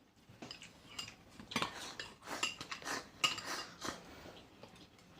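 Eating utensils clinking and tapping against bowls and plates at a dinner table, a scatter of irregular small clicks and clinks.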